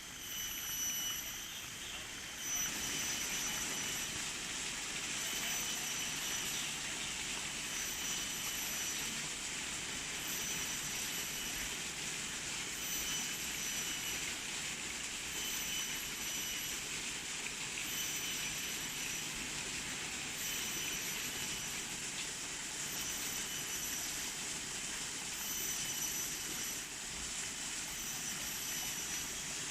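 Steady rushing outdoor noise, a little louder from about two and a half seconds in, with a faint high tone that sounds for about a second every two to three seconds.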